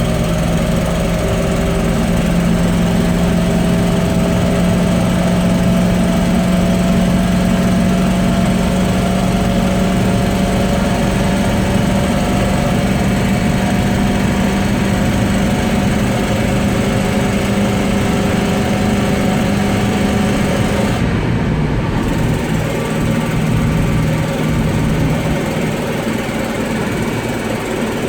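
1995 GMC TopKick truck engine pulling the truck down the road. Its pitch rises slowly as the truck gains speed, then drops about three quarters of the way through, as at a gear change.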